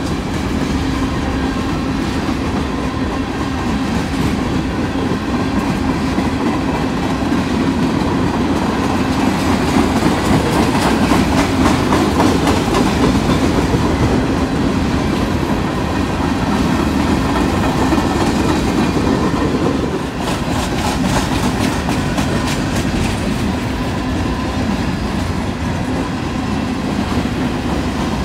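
Covered hopper cars of a freight train rolling past close by: a steady, loud rumble of wheels on rail, with clicking as the wheels pass over rail joints.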